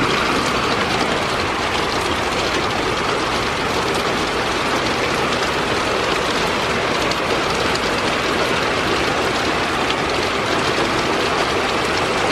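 Heavy thunderstorm downpour: a loud, steady roar of rain that holds level.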